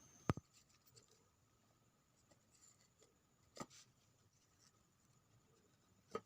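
Near silence, broken by three brief, sharp knocks about three seconds apart.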